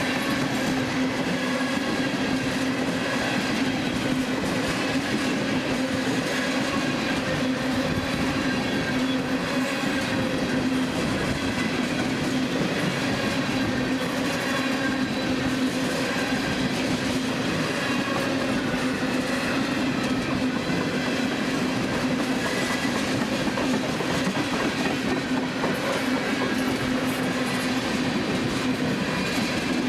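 Long freight train of empty ethanol tank cars rolling past at steady speed, the wheels clacking over the rail joints, over a steady hum.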